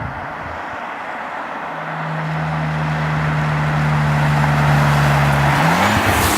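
Audi RS4 Avant's 2.9 TFSI twin-turbo V6 with sport exhaust driving towards the microphone: a steady engine note grows louder, the revs climb near the end, and then the sound cuts off suddenly.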